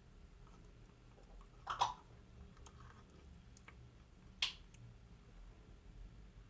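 African grey parrot eating yogurt: two sharp clicks about two and a half seconds apart, the first a little longer and wetter, with faint ticks between.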